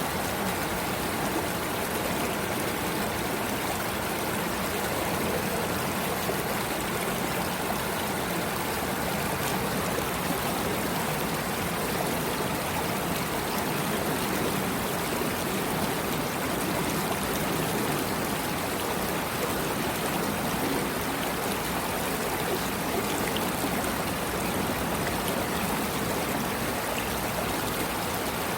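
A stream of water running steadily over rocks, an even rushing and trickling that does not change.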